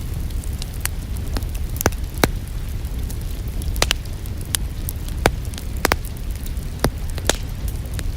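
Wood fire in a fireplace crackling, with about a dozen sharp, irregular pops over a steady low rumble.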